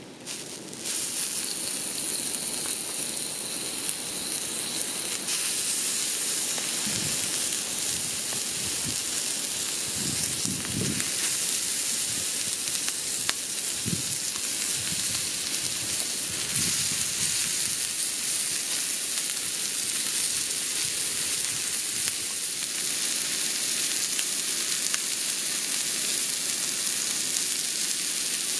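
Food sizzling as it fries in a hot pan. The steady hiss starts suddenly about a second in and gets louder around five seconds in, with a few low bumps of handling in the middle.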